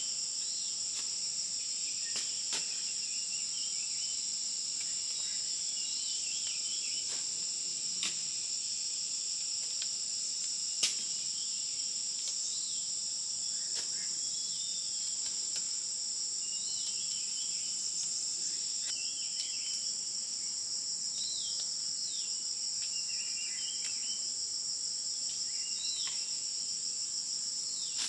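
A steady, high-pitched insect chorus drones without a break, with short scattered chirps sounding over it and a sharp click about eleven seconds in.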